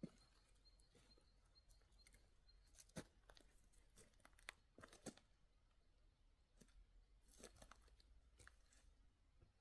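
Near silence, with faint scattered clicks and crackles; the sharpest come about three seconds in and around five seconds in. A faint high steady tone runs through the first few seconds.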